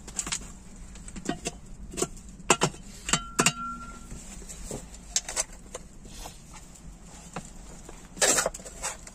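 Irregular knocks and clinks of objects being handled, one of them leaving a short metallic ring about three seconds in, with a longer scraping rustle near the end.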